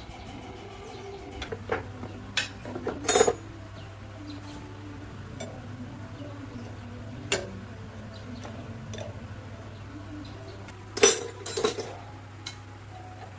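Metal tools and engine parts clinking and knocking against each other during hand work on an old diesel engine, in a few scattered strikes with the loudest about three seconds in and again near eleven seconds.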